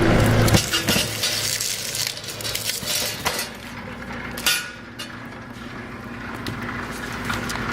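QJ009 electric cable-stripping machine running: the loud noise of its rollers working a large cable stops about half a second in, then the motor hums steadily, with scattered clicks and clinks and a sharper knock about halfway through.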